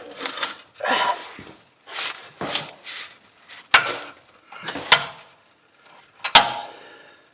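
Irregular metal clanks and rattles, with three sharp clinks in the second half, from hand work on the old exhaust's bolts and hardware under a car.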